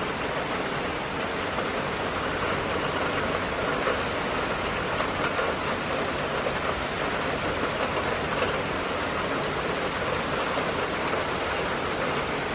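Steady rain falling, a continuous even hiss of rainfall.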